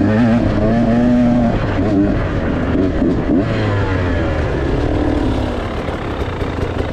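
Dirt bike engine being ridden on a trail, its pitch rising and falling repeatedly as the throttle is worked on and off. It is a little quieter over the last couple of seconds.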